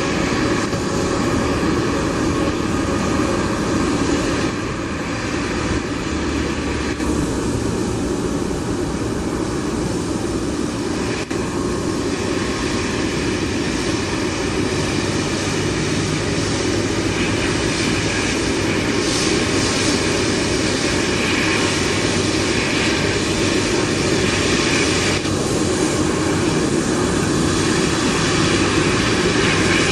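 Rolls-Royce Trent 700 turbofans of an Airbus A330-243F freighter running continuously, a steady jet roar that slowly grows louder toward the end.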